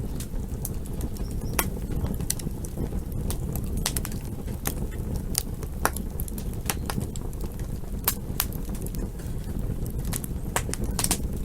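Campfire crackling: irregular sharp pops and snaps, a few each second, over a steady low rumble.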